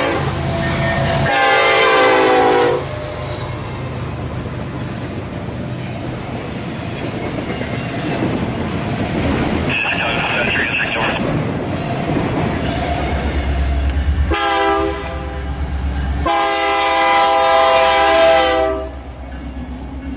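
Freight diesel locomotive horns sounding as trains pass: a horn blast ends a few seconds in, then the steady rolling clatter of freight cars with a brief squeal about halfway. Near the end a deep engine rumble builds and the horn sounds again, once short and once long.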